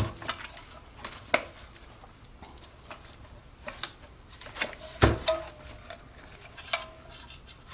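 Scattered metal clinks and taps of tools and engine parts as a piston is worked out of a Briggs & Stratton cylinder. A few ring briefly, and the loudest knock comes about five seconds in.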